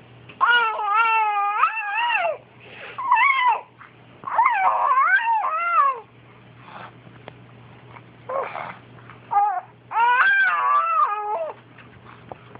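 A pet animal giving a series of loud, long, wavering yowling calls, about five of them with short pauses in between, in the manner of an animal getting worked up.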